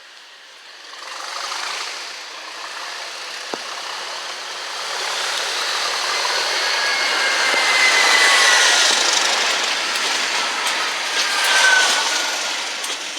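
A train passing close by: a rising rush of wheels on the rails that peaks past the middle, with high-pitched wheel squeals sliding in pitch in the middle and again near the end.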